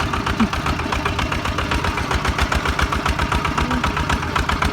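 Single-cylinder diesel engine of a công nông farm truck chugging with a fast, even beat.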